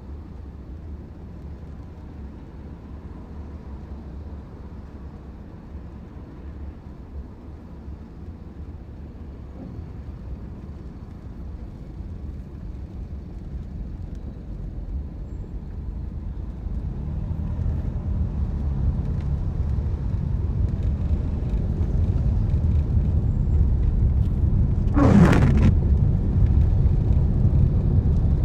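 A car driving, with a steady low road and engine rumble that grows louder over the second half. Near the end comes a brief sharp sound that falls in pitch.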